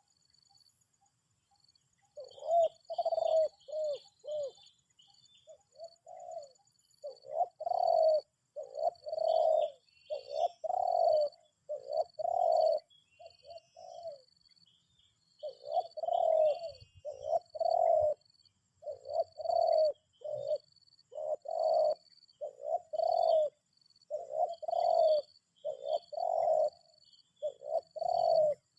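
Spotted doves cooing: a long run of repeated low coos that starts about two seconds in, with small birds chirping faintly higher up.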